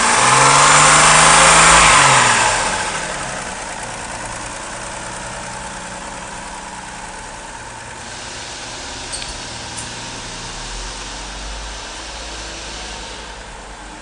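A 2002 Chevrolet Trailblazer's 4.2-litre inline-six engine revved once, climbing and then dropping back within the first couple of seconds, then settling into a steady idle. Two light clicks about nine seconds in.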